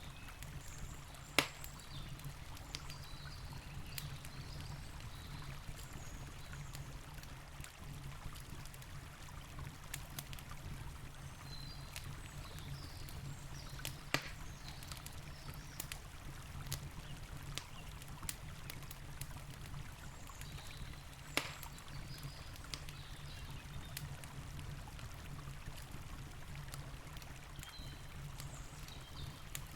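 Wood campfire crackling with scattered sharp pops, three of them louder, over the steady rush of a river.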